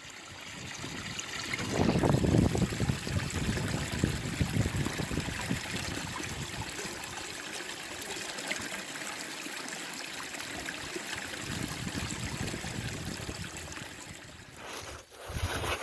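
Water flowing steadily in a small stream, trickling and gurgling, a little louder in the first few seconds.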